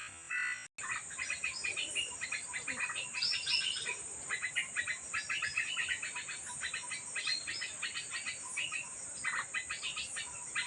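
Yellow-vented bulbuls (trucukan) calling: rapid runs of bubbly chirps, over a steady high insect buzz.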